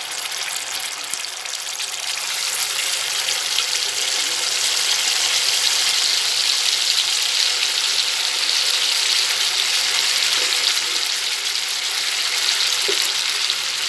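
Boiled jackfruit seeds frying in hot coconut oil in a wok: a steady sizzle that grows a little louder about two seconds in.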